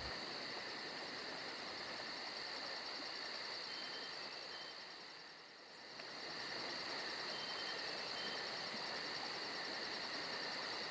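Steady, high-pitched insect-like chirring with a fast even pulse, dipping briefly about five seconds in and then coming back.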